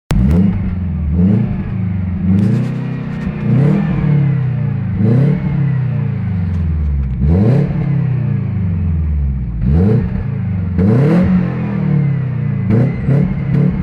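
Car engine heard through an unfinished aftermarket exhaust with a VAZ-2110 resonator fitted, idling and revved in repeated short blips, each rising in pitch and falling back about nine times. The owner says the resonator spoils the exhaust sound.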